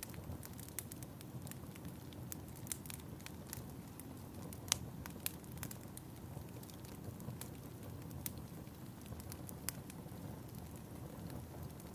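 Wood fire in a fireplace crackling, with irregular sharp pops over a steady low rumble; one pop about five seconds in is the loudest.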